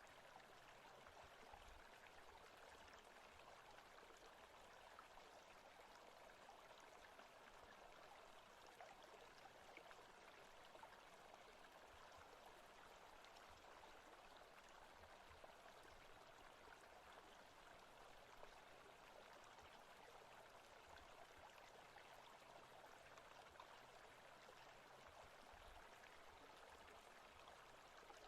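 Faint, steady running water of a forest stream, an even rushing with no breaks.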